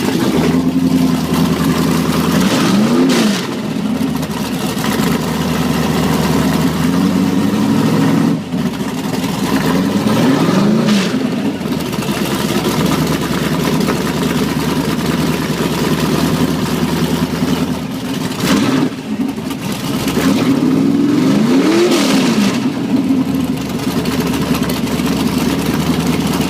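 Drag car engine idling loudly, revved up and straight back down three times, about 3, 11 and 22 seconds in.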